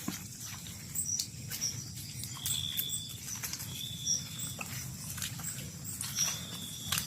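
Night-time rainforest animal chorus: many short chirps and clicks, with a high steady whistling note that comes three times, each under a second long.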